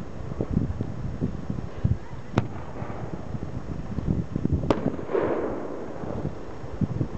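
Aerial fireworks shells bursting: two sharp bangs a little over two seconds apart, the second followed by a spreading crackle, with low rumbling thumps in between.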